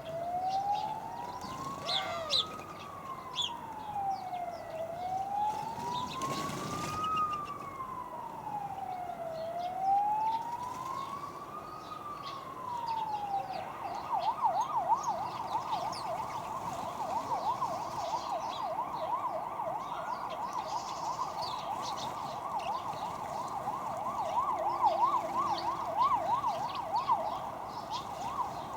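Emergency vehicle siren: a slow wail rising and falling about every four to five seconds, then about halfway through switching to a fast yelp of several quick sweeps a second. Short high bird chirps sound over it.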